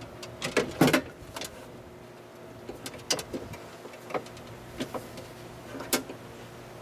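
Irregular clicks and clunks of metal and plastic parts being handled and fitted inside a car door while a window regulator is installed, the loudest in a cluster about a second in, over a steady low hum.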